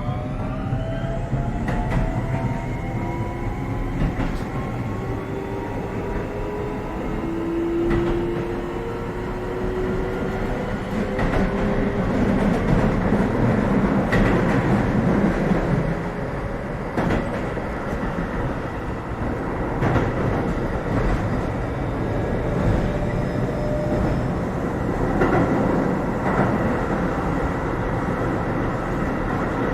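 Keio 7000 series electric train heard from inside the passenger car while accelerating. The traction motors' whine rises in pitch through the first dozen seconds and then fades as the train runs on. Under the whine there is a steady rolling rumble, and the wheels click over rail joints from time to time.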